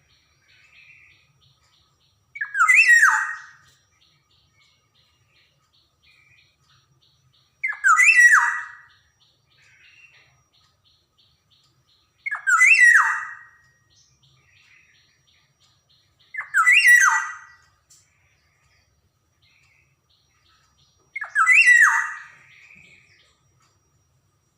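Black-naped oriole (kepodang) giving five harsh calls, each about a second long and sweeping down in pitch, repeated every four to five seconds. Faint, softer notes come between the calls.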